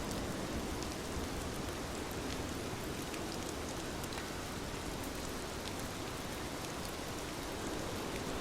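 Heavy rain falling steadily, a dense hiss with scattered individual drop ticks.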